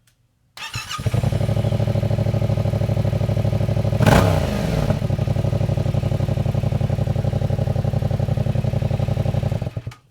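2016 Yamaha FZ-07's 689 cc parallel-twin engine starting up and idling with an even, pulsing exhaust note through its stock exhaust with the end piece cut off. It gives one quick rev about four seconds in, then stops shortly before the end.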